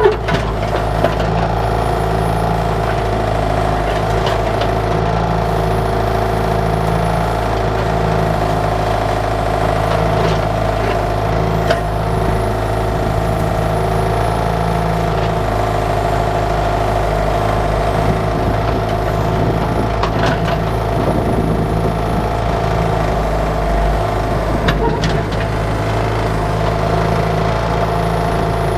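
Bobcat 331 mini excavator's diesel engine running steadily under working load, with a few sharp knocks and clanks from the bucket and arm digging.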